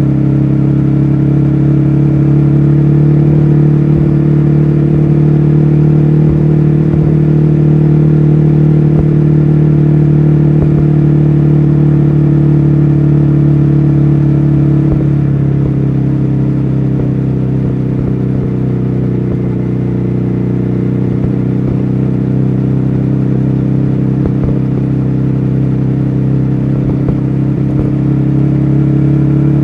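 2014 Ducati Hyperstrada's 821 cc Testastretta V-twin running at a steady engine speed while riding. The pitch drops slightly about halfway through and slowly climbs again toward the end.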